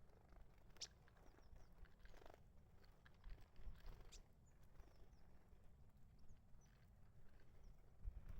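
Faint, scattered short high chirps and light taps from small garden birds, over a low steady rumble.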